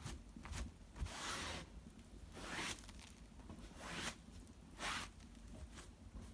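Dry cedar bark and twigs rustling and tearing as they are handled, in four short bursts.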